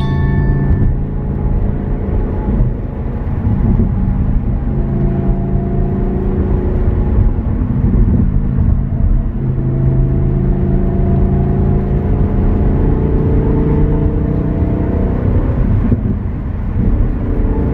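Lamborghini Huracán Performante's naturally aspirated V10 under steady highway acceleration in Corsa mode, heard from the passenger seat: the engine note climbs slowly, drops with an upshift about ten seconds in, then climbs again and drops near the end.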